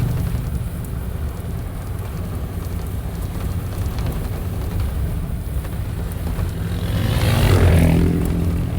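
Off-road vehicle's engine running with a steady low rumble at crawling speed over rough trail, swelling louder with a higher engine note about seven seconds in, then easing off.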